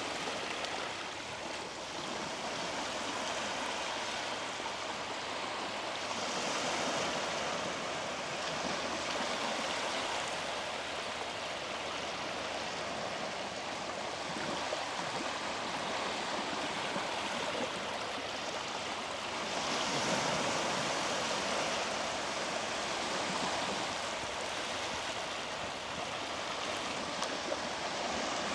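Small sea waves washing onto a beach: a steady rush of surf that swells a few times, most strongly about twenty seconds in.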